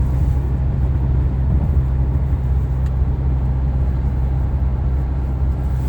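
Steady rumble of road and engine noise inside a moving vehicle's cabin, with a faint click about three seconds in.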